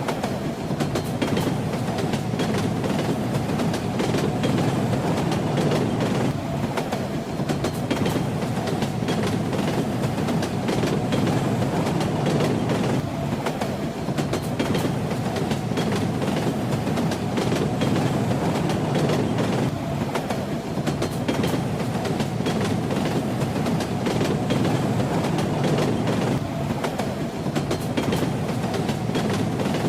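Train running steadily on the rails: a constant low rumble with the wheels clacking over the rail joints.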